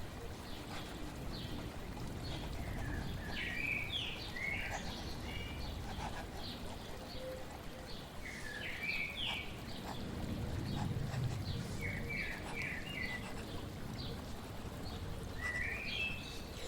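Birds chirping in short groups of quick notes that recur every few seconds, over a steady rush of flowing water.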